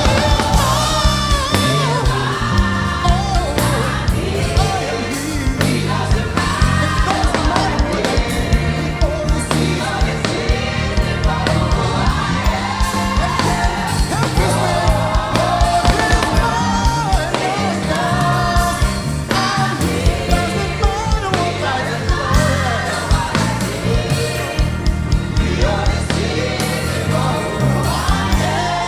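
Gospel choir singing with a live church band, drums and bass keeping a steady beat under the voices.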